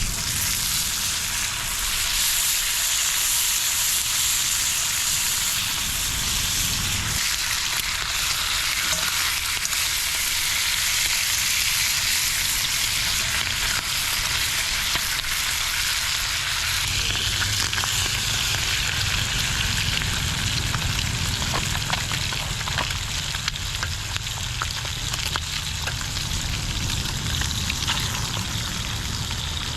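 Food sizzling and frying in a hot pan, a steady dense hiss with scattered small pops.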